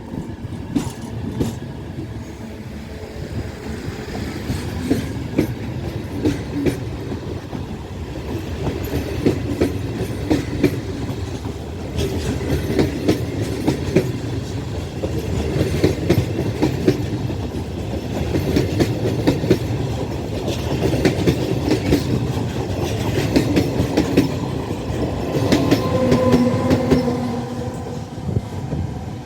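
Train running past on the track, its wheels clattering over the rail joints in a continuous clickety-clack over a low rumble. A short steady tone sounds near the end.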